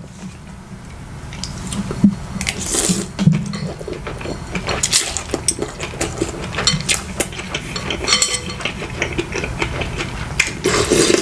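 Chopsticks clinking and scraping against a bowl in many short, irregular knocks, with some sloshing of broth.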